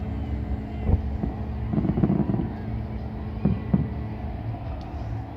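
A steady low mechanical hum, like a running engine, with a few short thumps (one about a second in, two close together past the middle) and a brief murmur of voices.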